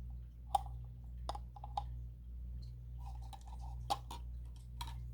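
Light clicks and taps of plastic paint cups being handled while paint is layered into a flip cup, about half a dozen scattered through, the sharpest about half a second in and just before four seconds, over a low steady hum.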